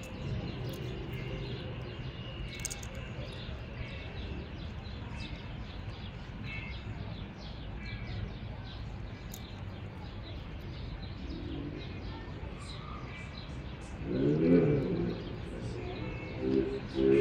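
Small birds chirping on and off over a steady low background hum. A louder, brief vocal sound rises and falls in pitch about fourteen seconds in.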